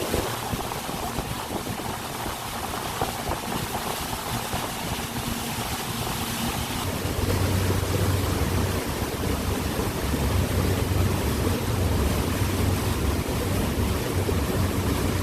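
Tour boat's motor running under way, with water rushing past the hull and wind on the microphone; the motor's low hum grows louder about seven seconds in.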